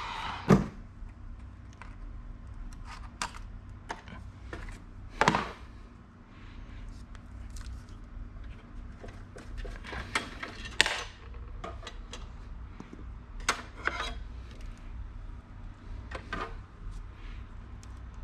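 Computer hardware being handled: scattered clicks, taps and rustles of metal and plastic parts, with a louder knock about five seconds in and a cluster of taps around ten to eleven seconds in.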